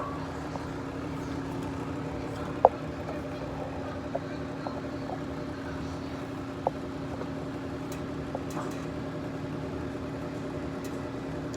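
Freight train passing, a steady low drone with a constant hum. A few short sharp clicks or knocks break through, the loudest about three seconds in.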